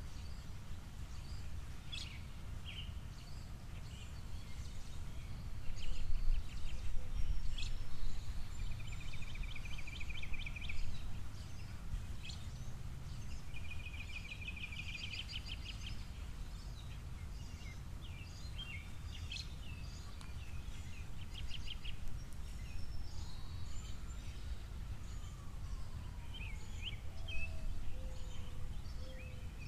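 Small songbirds chirping, with two rapid trills in the first half, over a steady low outdoor rumble that swells for a moment early on.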